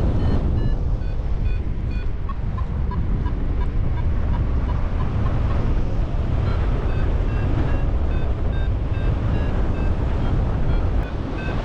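Strong wind rushing over the microphone in flight, with a flight variometer beeping in quick, short, evenly spaced tones that shift in pitch. The beeping is the sign of the glider climbing in lift.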